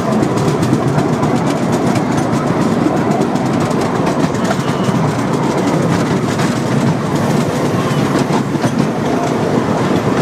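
Steady rumble and clatter of a narrow-gauge railway's open passenger carriage running along the track, with faint irregular clicks from the wheels on the rails.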